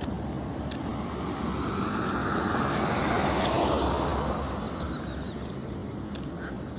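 A road vehicle passing close by, its engine and tyre noise swelling to a peak about three and a half seconds in and then fading.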